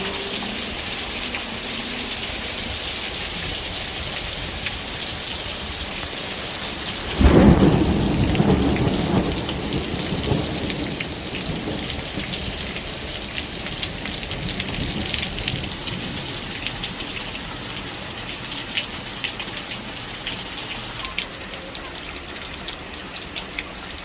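Heavy rain pouring in a thunderstorm, with a sudden loud thunderclap about seven seconds in that rumbles away over several seconds. Later the rain's hiss eases and single drops tick and patter.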